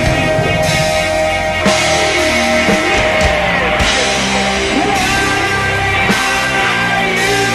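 Rock band recording playing loud and steady: electric guitars and bass with a drum kit.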